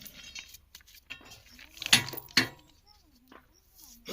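Metal clinking from railway track fitting work: light clicks, then two loud sharp metal-on-metal strikes about half a second apart that ring briefly. Voices are faint in the background.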